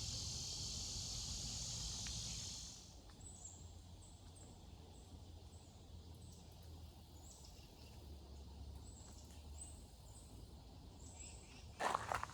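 Steady high buzzing of insects that cuts off about three seconds in, followed by a scatter of short, high, slightly falling chirps. Footsteps start near the end.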